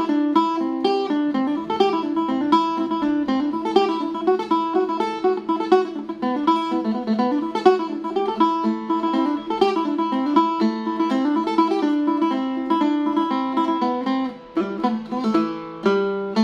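Phin, the Isan plucked lute, playing a fast lam phloen melody: quick runs of plucked notes over a steady low drone string, with a short pause near the end.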